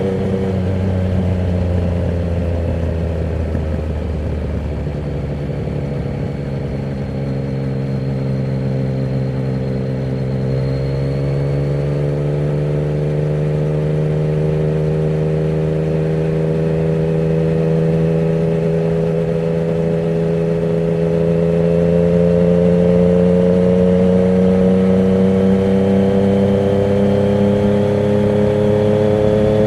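Yamaha MT-09's inline-three engine running through a Termignoni exhaust with the dB killer removed, heard while riding. The engine note falls over the first ten seconds or so, then rises slowly and steadily.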